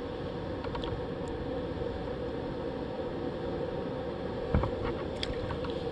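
Steady rushing of flowing creek water, with a few short knocks about four and a half and five seconds in.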